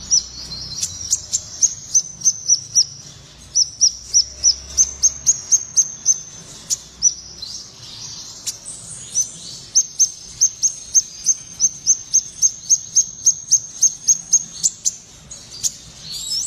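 A sepah raja songbird singing freely: long runs of short, high, downward-slurred whistled notes, about three a second, broken by a pause of a couple of seconds midway.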